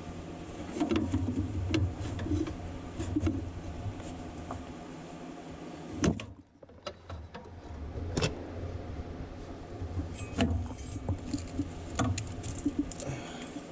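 Hand tools clicking and knocking on metal at irregular intervals while a lawn mower's drive belt pulley is worked loose, with rustling and handling noise underneath.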